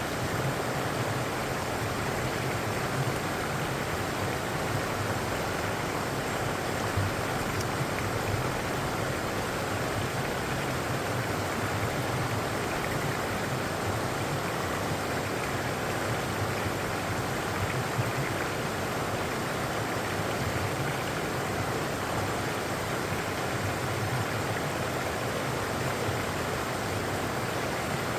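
Running water making a steady, even rush with no breaks.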